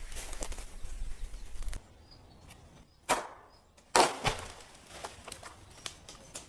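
Rustling and scraping handling noise, then two sharp knocks about a second apart, followed by a few light ticks.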